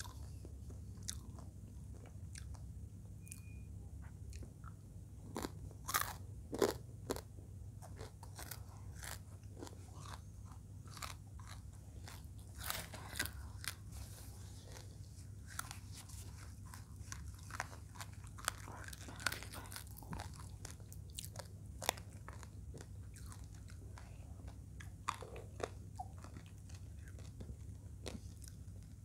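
A person chewing crispy fried eel in chili sauce close to the microphone: soft crunches and mouth clicks, scattered irregularly, the sharpest crunches about six and seven seconds in.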